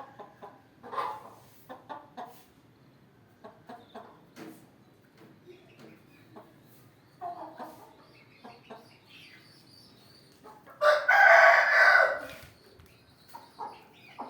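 Aseel chickens clucking with scattered short calls, and a rooster crowing once, loudly, for about a second and a half about two-thirds of the way through.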